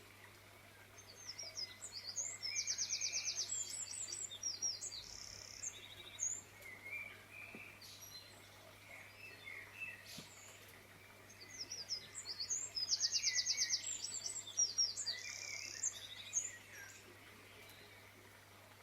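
A songbird singing the same fast, high trilling song phrase twice, each lasting about three seconds, with softer scattered chirps between. A faint steady low hum runs underneath.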